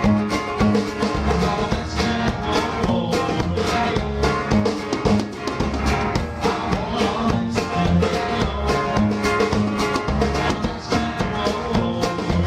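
Rock band music with a drum kit keeping a steady beat, bass notes and guitar.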